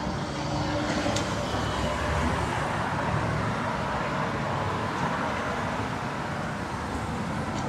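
City street traffic: a steady rush of cars driving past on the road, with a faint low engine hum.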